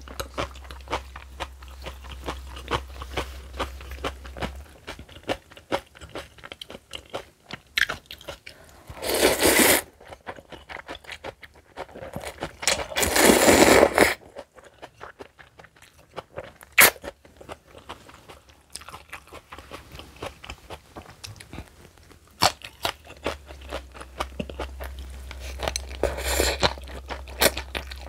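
Close-miked eating of spicy kimchi and noodles: many short, crisp crunches and wet chewing clicks, broken by three louder bursts of about a second each, near 9 seconds, 13 seconds and 26 seconds in.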